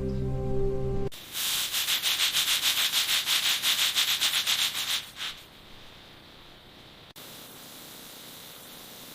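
Fast back-and-forth sanding strokes, about five a second, for roughly four seconds, after a second of music. A faint steady hiss follows and grows a little louder about seven seconds in.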